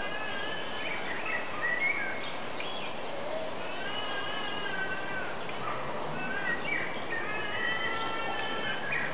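Birds singing and chirping in short whistled phrases that rise and fall, several at once in places, over a steady background hiss.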